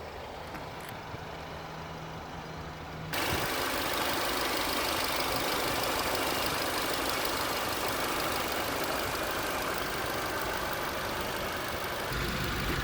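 2018 Audi A5 Coupe's 2.0T turbocharged four-cylinder idling with a steady low hum. About three seconds in, a loud, even rushing noise switches on abruptly and holds steady.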